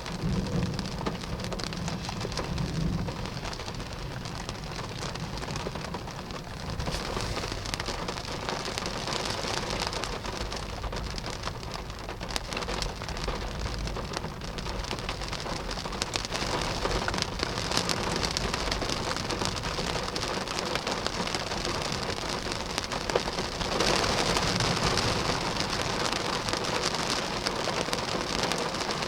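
Heavy rain pouring down in a severe thunderstorm, a dense patter of drops, with a low rumble of thunder in the first few seconds. The downpour grows louder about 24 seconds in.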